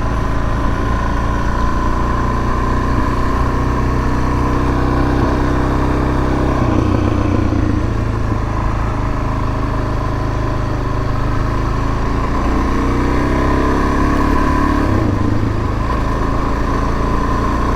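Suzuki DR-Z400S single-cylinder four-stroke engine running as the bike rides along, its pitch shifting with the throttle about a third of the way in and again past the middle, over a steady low wind rumble on the microphone.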